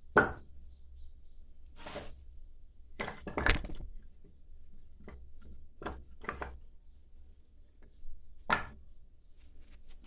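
Split oak firewood logs knocking together as they are handled and set down, a scattered series of hollow wooden thunks. The loudest come about a third of the way in and near the end.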